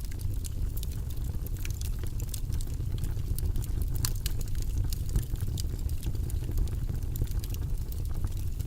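Wood bonfire burning and crackling: frequent small sharp pops and snaps over a steady low rumble.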